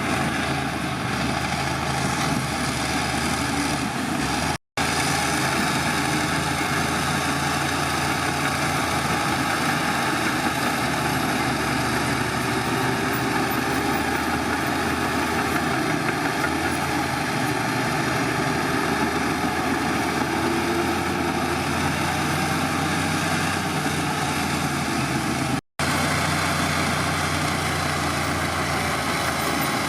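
Heavy machinery diesel engine running steadily, broken twice by a sudden, very short silent gap.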